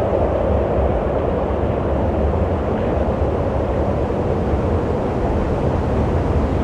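Steady wind blowing: a continuous rushing noise with a deep rumble underneath.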